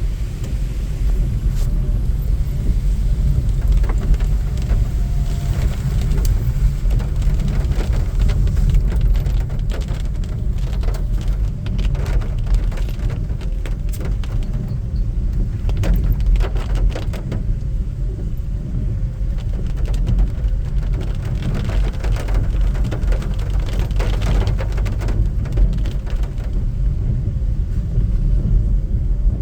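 Steady heavy rain with many sharp drop taps over a loud low rumble.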